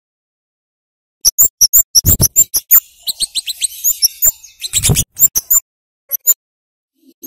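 Scarlet-headed flowerpecker (cabai jawa) calling: after about a second of quiet, a fast run of sharp, very high chips, then a few scattered chips near the end.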